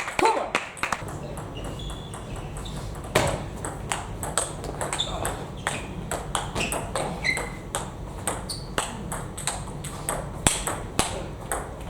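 Table tennis balls being hit by bats and bouncing on tables: a quick, irregular run of sharp ticks, many with a short ringing ping.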